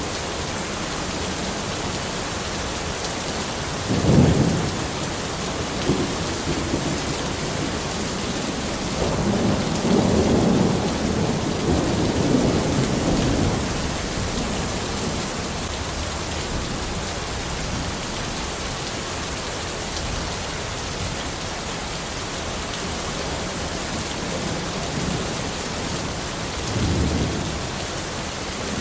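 Steady rain falling, with rolls of thunder: a short rumble about four seconds in, a longer one in the middle and another near the end.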